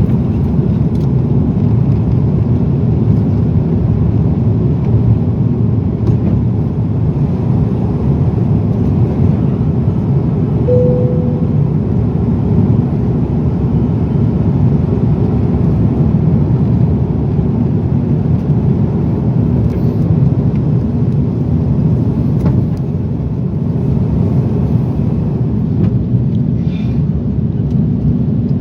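Steady rumble of an Airbus A340 airliner heard from inside the cabin: engine and airflow noise at a constant level. One short tone sounds about a third of the way through.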